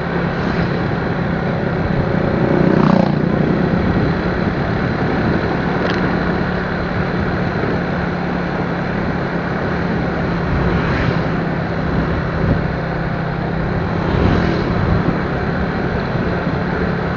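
Motorcycle riding along a road: a steady engine hum under constant wind and road noise, with a few brief swells as other traffic passes.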